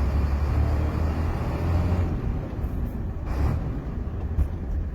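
HOWO truck's diesel engine pulling in fourth gear with a steady low drone that eases a little about two seconds in. There is a short rush of noise around three and a half seconds in, ahead of the change up to fifth.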